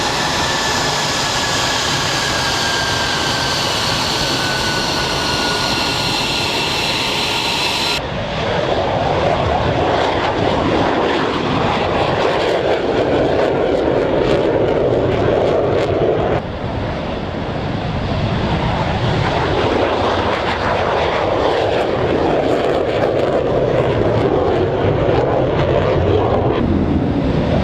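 Jet aircraft engine noise in edited segments: a roar with a high whine slowly falling in pitch for about eight seconds. After abrupt cuts about eight and sixteen seconds in, it gives way to a steady, noisier roar.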